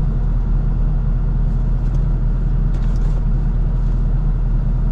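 LS-swapped 1981 Chevrolet C10's V8 idling steadily, a constant low rumble heard from inside the cab.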